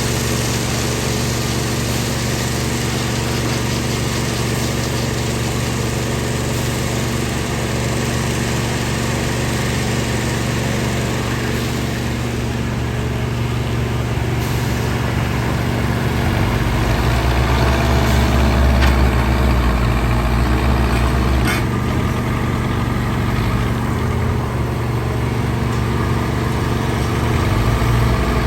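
Backhoe loader's diesel engine running steadily. It gets louder and deeper for a few seconds past the middle and again near the end, with a few faint knocks.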